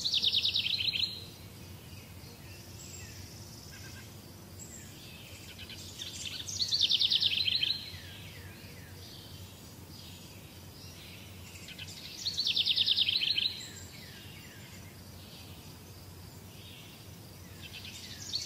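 A bird calling: a rapid trill of notes falling in pitch, about a second long, repeated about every six seconds, with fainter chirps between, over a steady low background rumble.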